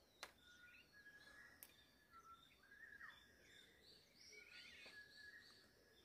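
Faint birdsong: several birds giving short whistled notes, chirps and quick pitch glides over a quiet background. Two faint clicks sound in the first couple of seconds.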